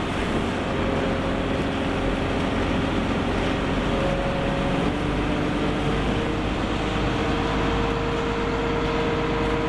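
Fishing boat's engine running steadily under way, with a droning haze and a steady whine on top whose pitch shifts about five to six seconds in.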